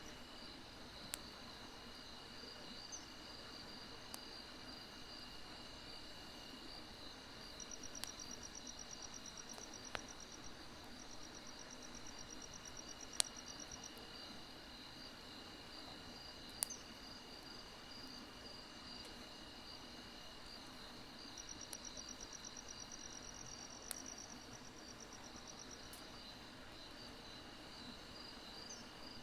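Grass insects chirping steadily in several high tones, with stretches of rapid pulsing trills that come and go. Now and then a sharp single pop from burning firewood crackling in a fire pit.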